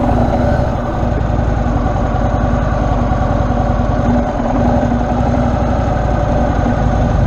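Heavy motorcycle's engine running at a steady speed.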